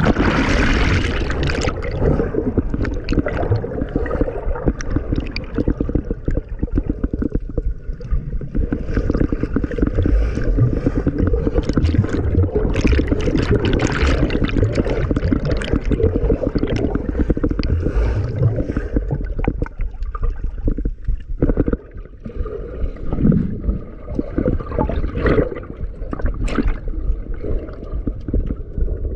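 Water churning and gurgling close to the microphone, a continuous dense wash with crackling bubbles.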